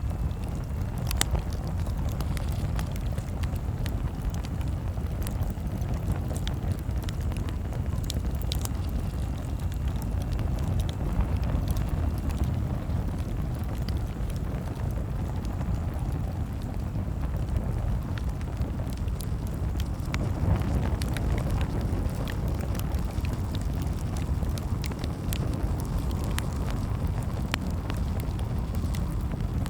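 Campfire crackling: a steady low rumble of burning with frequent sharp pops and snaps scattered throughout.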